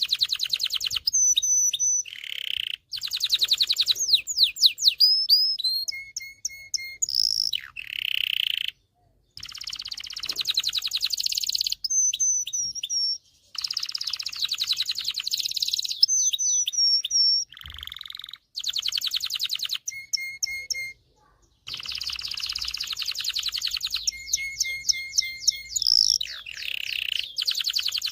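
Male domestic canary singing a long, varied song of rapid trills, fast repeated notes and sweeping whistles, in phrases broken by short pauses.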